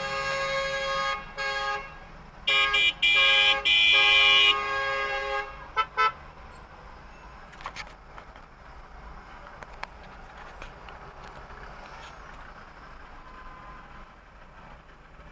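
Car horns honking in several long blasts, the loudest from about two and a half to four and a half seconds in, then two short toots about six seconds in, followed by steady road noise.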